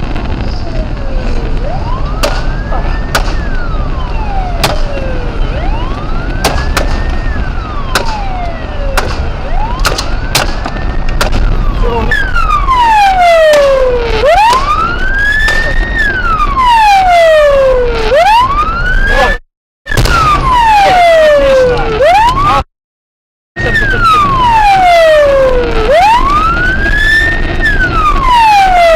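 Police car siren wailing, each cycle a quick rise and a slow fall, repeating about every four seconds over a steady vehicle rumble. It grows louder about twelve seconds in and cuts out twice briefly near the middle; sharp clicks sound in the first half.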